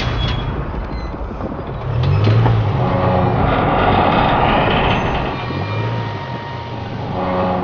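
Land Rover Discovery Sport's engine working under load as the car takes the strain of a 108-tonne train on rails, with a heavy rumble that grows louder about two seconds in as the train starts to move.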